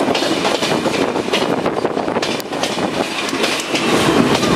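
Passenger train running, heard from aboard one of its coaches: a steady rumble of wheels on the track with the repeated clack of the wheels over rail joints.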